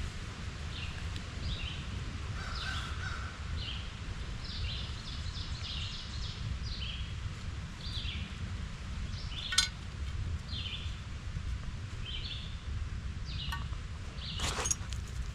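Wild birds calling repeatedly, short high chirping notes over a steady low rumble. A sharp click about ten seconds in and another near the end.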